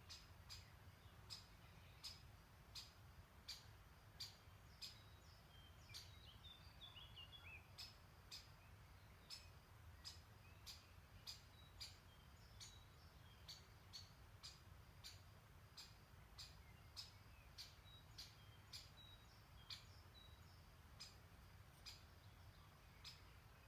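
Faint birdsong: a small songbird repeating short high chirps about once or twice a second, with a brief falling trill from another bird about six seconds in, over a faint low rumble.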